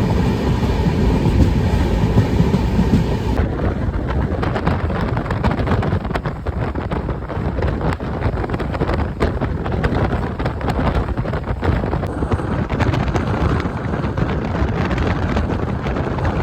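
Express train running at speed, heard from on board: a steady rumble of the coach with the quick clatter of wheels over the rails. The upper hiss drops off suddenly about three seconds in.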